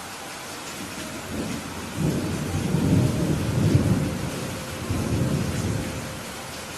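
Steady rain hissing, with a long low thunder rumble that swells about a second in, surges a few times and fades out near the end.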